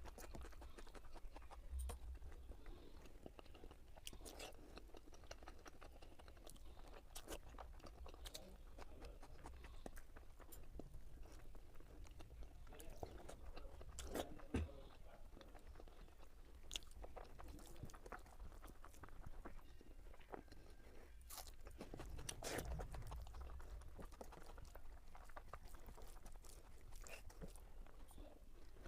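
A person chewing a mouthful of egg curry and rice, with scattered small mouth clicks and bites.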